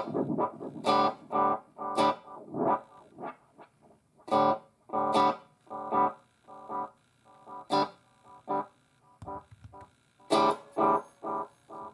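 Guitar chords played through a NUX Mighty Air wireless practice amp, struck one at a time and left to ring out, with some effect and slight distortion on the tone.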